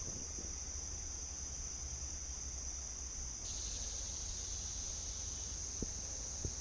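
A steady, high-pitched drone of insects, like a cricket chorus, that thickens a little past halfway, over a low rumble of wind, with a couple of faint ticks near the end.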